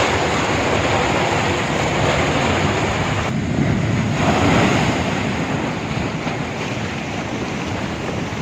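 Rough sea waves surging in, floodwater driven over the shore, mixed with wind buffeting the microphone; a brief lull about three seconds in, then a fresh swell of water.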